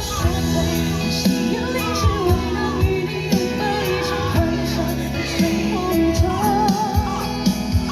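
A singer performing a song over an amplified backing track with a steady beat, the voice holding notes with vibrato.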